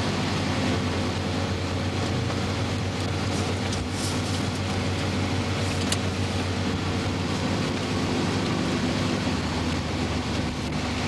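Steady hum and hiss of an idling car engine, even and unchanging, with a couple of faint ticks.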